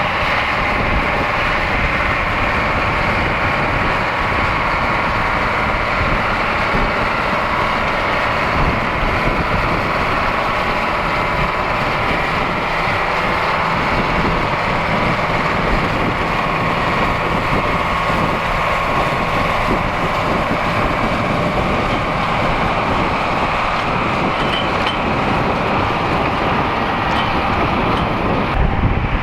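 Big AGCO tractor engine running steadily under load while pulling a plow through a field.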